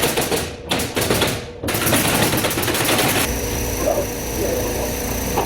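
A power tool rattling with fast clicks in two bursts, with a short break under a second in. It stops about three seconds in and gives way to a steady sound with a thin high whine and a low hum.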